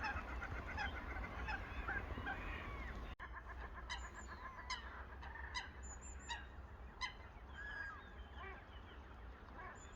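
A flock of waterbirds on a lake calling: many short, overlapping calls, several at once, going on throughout.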